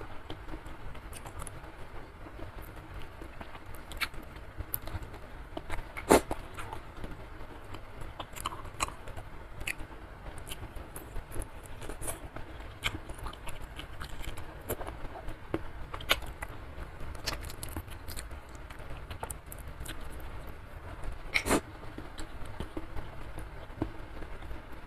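Close-up eating sounds: chewing and wet mouth clicks from chewy beef skin (kikil) eaten with fingers from a bowl of curry noodle soup. The clicks come irregularly, with a louder one about six seconds in and another a few seconds before the end, over a faint low hum.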